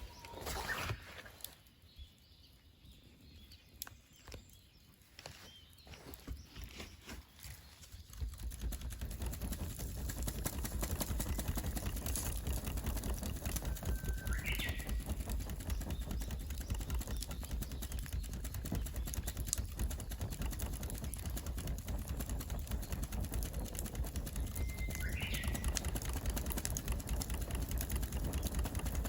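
Wood fire crackling with fine, rapid pops. From about eight seconds in a steady low rumble joins it and runs until it cuts off at the very end. A bird chirps twice, briefly.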